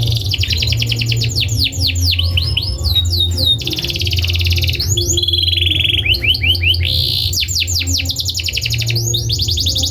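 Domestic canary singing a long, continuous song of rapid trills, each phrase a fast run of repeated notes that gives way to the next every second or two, with a held buzzy note about midway. A low steady hum runs underneath.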